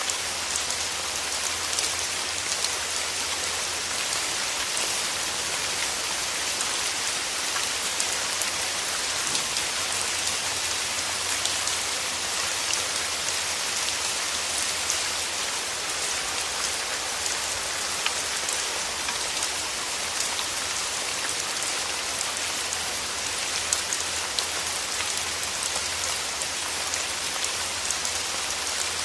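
Steady rain falling, a dense even hiss flecked with many small drop ticks, over a faint steady low rumble.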